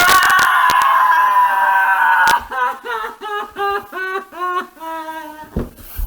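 A woman screaming: one long, loud, high scream lasting about two seconds, then a rapid string of short wailing cries, about three a second.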